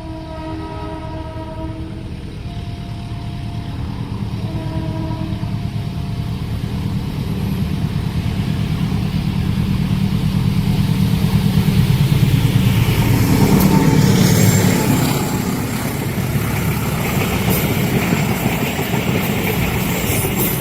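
Diesel train locomotive sounding a multi-tone horn in three blasts, the first long and the others short. The train then approaches and passes close by: the engine rumble builds to its loudest about 13 seconds in, followed by the carriages' wheels clattering over the rail joints.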